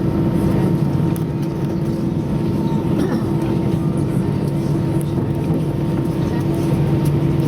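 Airbus A320-200 cabin noise while taxiing after landing: a steady drone of the engines at idle, with a constant low hum.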